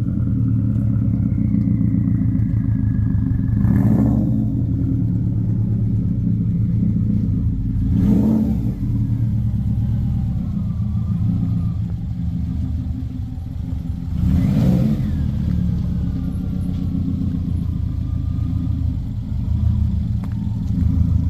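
Subaru 2-litre WRX flat-four engine running steadily as the drift car is driven, with a few brief louder surges about 4, 8 and 14 seconds in.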